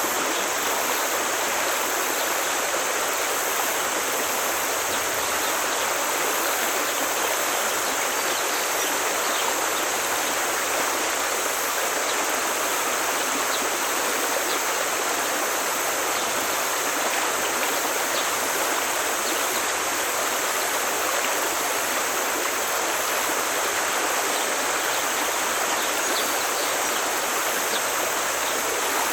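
Forest stream flowing, a steady, even rush of water with no breaks.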